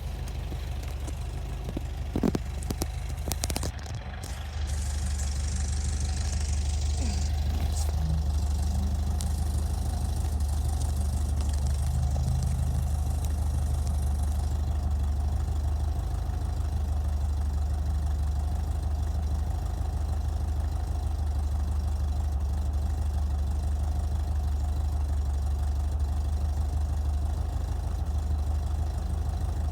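1967 Vintage Speedster's engine idling steadily while warming up from a cold start. A few sharp clicks come about two to four seconds in, and just after that the idle settles at a slightly louder, even level.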